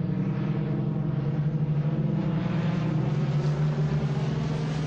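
Piston aircraft engine running with a steady drone, its pitch holding nearly level and easing slightly lower toward the end.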